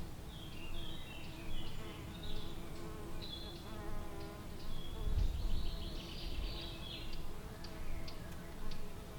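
A flying insect buzzing steadily close by, its hum wavering a little in pitch, with small birds chirping over it. A brief low rumble comes about five seconds in.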